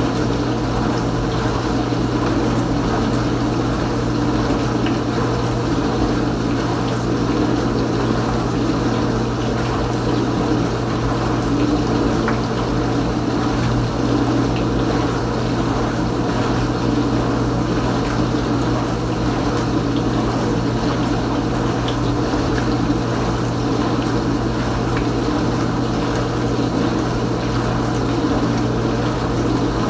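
Kenmore Ultra Wash 3 dishwasher running mid-cycle: its pump motor hums steadily under the sound of water moving inside the tub.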